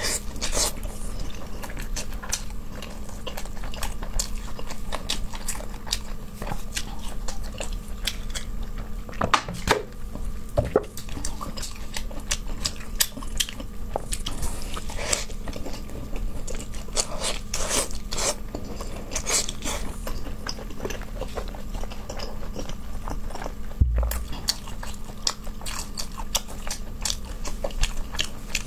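Close-miked chewing and biting of braised meat and soybeans, with irregular wet mouth clicks and smacks over a low steady hum.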